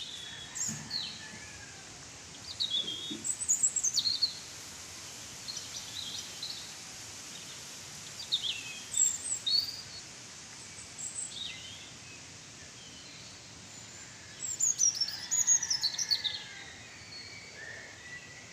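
Birds chirping and calling in short bursts of quick falling notes a few seconds apart, over a steady background hiss.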